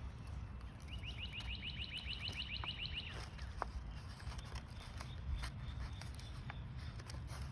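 A songbird's rapid trill starting about a second in: about ten quick falling high notes a second for some two seconds. Faint scattered ticks follow, over a steady low wind rumble.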